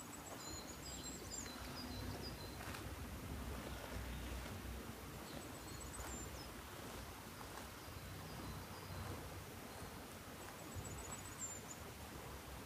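Quiet forest ambience with a steady hiss of background air. A small bird repeats a quick, high-pitched trill of rapid notes three times: at the start, about six seconds in, and near the end.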